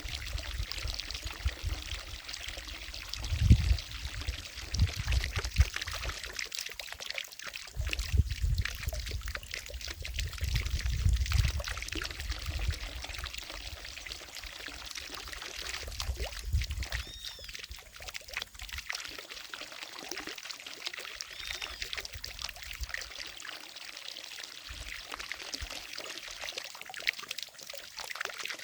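Water falling from a fountain and splashing into a lake: a steady pouring and trickling. Low rumbles come and go during the first two-thirds.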